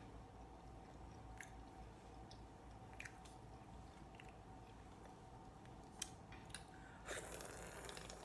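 Close-miked seafood eating: a few faint clicks, then a louder wet chewing and squishing noise about seven seconds in.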